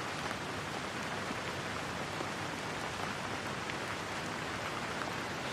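Steady rain: an even hiss with occasional faint drop ticks.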